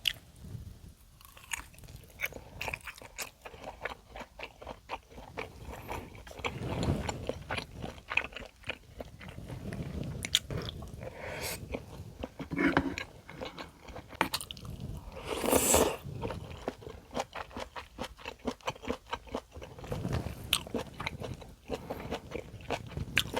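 A person eating whole Spam close to the microphone: steady chewing and biting with many small, wet mouth clicks, and a few louder, longer mouth sounds in the middle.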